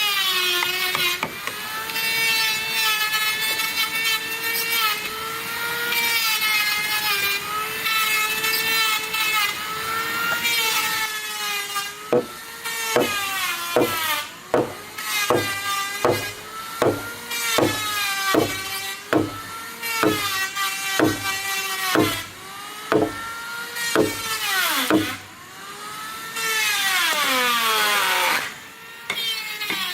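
Electric power saw cutting wood: a steady motor whine whose pitch dips and recovers under load. Midway comes a run of evenly spaced sharp knocks, and near the end the motor's pitch falls away as it winds down.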